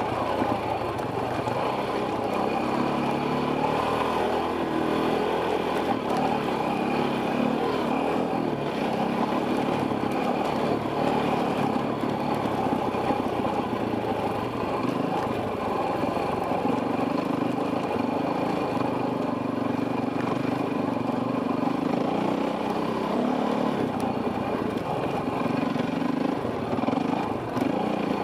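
Enduro dirt bike engine running steadily, its pitch rising and falling as the throttle and gears change while riding a trail.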